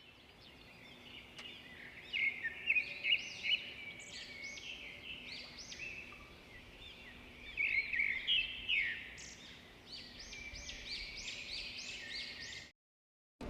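Small birds chirping, with many quick rising and falling chirps coming in clusters; the sound cuts off abruptly near the end.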